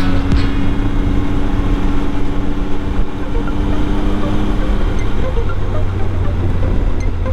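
Motorcycle riding at steady road speed: the engine runs under dense wind rush on the microphone. A steady low engine note fades out about five seconds in.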